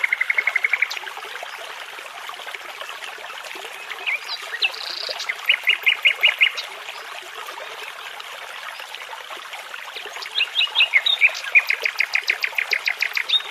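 Nightingale singing over a steady babbling brook: phrases of fast repeated notes, a short run about five seconds in and a longer run of rapid notes near the end.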